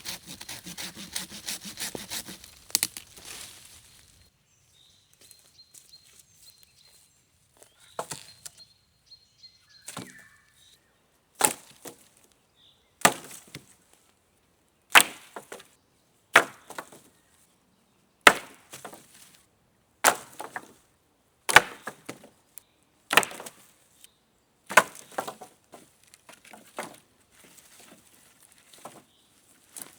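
Wood being chopped: about a dozen sharp single blows, roughly one every one and a half seconds, each followed by a brief splintering crackle. A few seconds of rustling noise come before the first blows.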